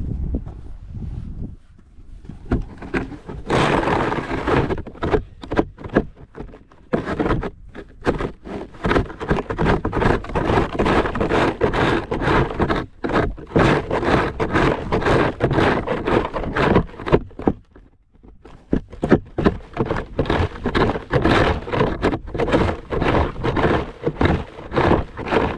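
Snow shovel scraping along the driveway, many rough scrapes and knocks in quick, irregular succession, with two short pauses, one near the start and one about two-thirds of the way through.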